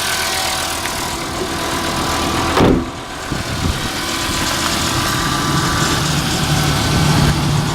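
The cold 2007 Volkswagen Rabbit's 2.5-litre five-cylinder engine idling steadily shortly after a cold start. There is a brief noise about two and a half seconds in.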